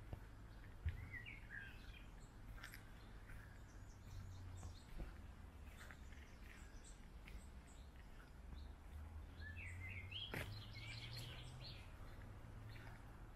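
Birds singing faintly in short, chirpy phrases, once about a second in and again near ten seconds, over a low steady rumble.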